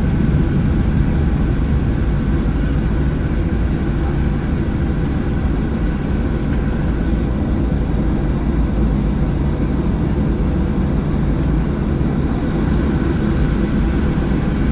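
Steady low rumble of a Boeing 737-700 jet heard from inside the passenger cabin, engines and air system running evenly.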